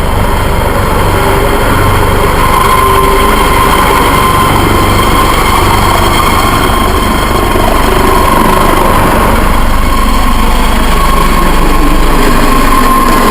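Life Lion medical helicopter running steadily: loud, even engine and rotor noise with a constant whine over it.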